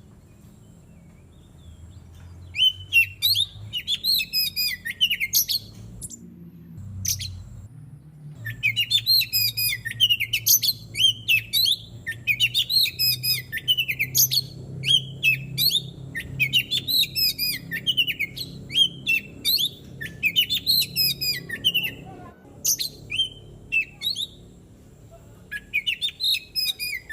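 Oriental magpie-robin (kacer) singing in long runs of rapid, varied whistles and chattering notes, broken by short pauses about 6 s in and after about 22 s, over a faint low background hum.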